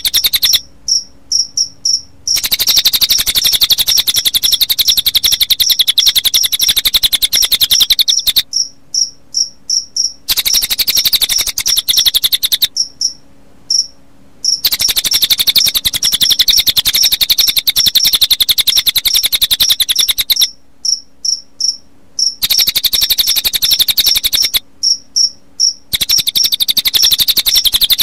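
Recorded cililin bird song mixed with cricket chirping: a loud, very fast, high-pitched trill that keeps stopping for a second or two, with short high notes repeating about four times a second in the gaps.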